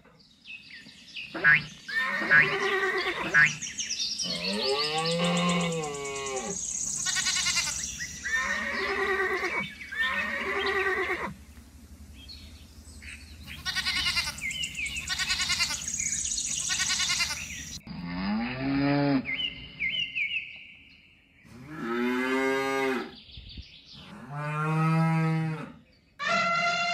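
A string of recorded animal calls, one after another with short pauses, ending in long cow moos that rise and fall.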